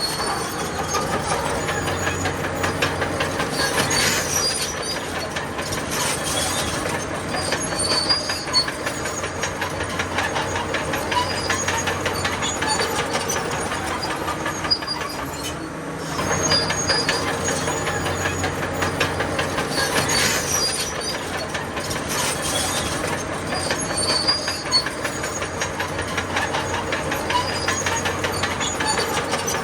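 Crawler bulldozer working: its diesel engine running steadily with the rapid clatter of the tracks over it.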